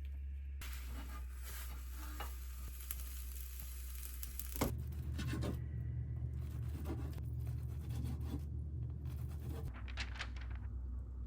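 Food sizzling in a pan while a utensil stirs it, with scattered clicks and a sharp knock about four and a half seconds in.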